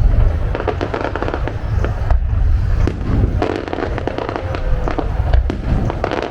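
Aerial fireworks display: deep booming rumble of bursting shells under dense, rapid crackling.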